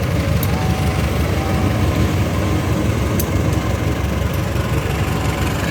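Diesel train passing a level crossing: a loud, steady low engine rumble.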